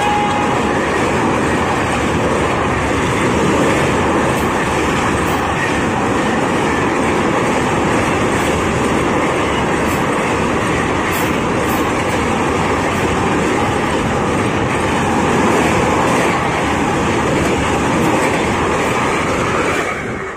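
Express train of passenger coaches passing close by at full speed across a rail bridge: a steady, loud rolling noise of wheels on the rails that stops suddenly near the end.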